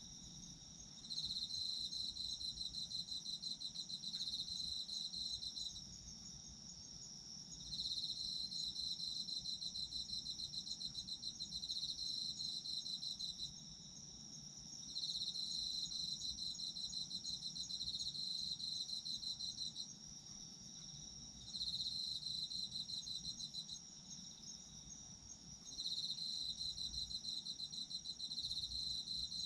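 Autumn crickets singing: one continuous high, steady trill under a lower, rapidly pulsed trill that comes in bouts of about five seconds with short pauses between them.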